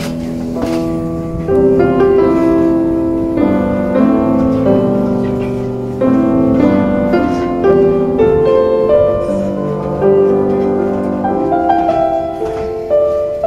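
Piano music: a slow melody of struck, ringing notes with chords underneath.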